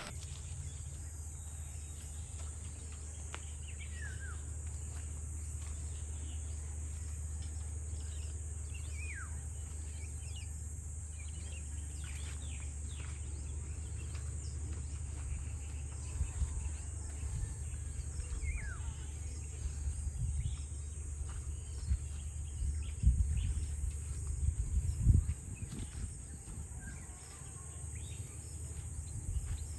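Rural outdoor ambience: a steady high-pitched insect drone with a few short, falling bird whistles now and then, over a low rumble. Several louder low thumps come about three-quarters of the way through.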